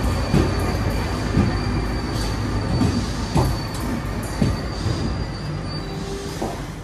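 RER commuter train rolling into a platform and braking to a stop: a steady rumble with wheel knocks over rail joints roughly once a second, and a thin high squeal that fades out near the end.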